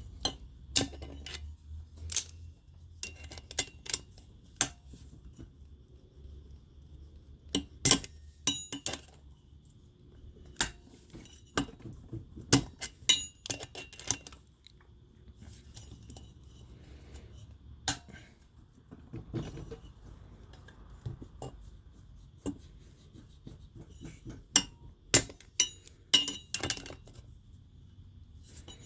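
Hand tools and metal engine parts clinking and tapping in irregular, scattered strikes, some sharp and loud, during work on the valve stem seals of an engine's cylinder head, over a low steady hum.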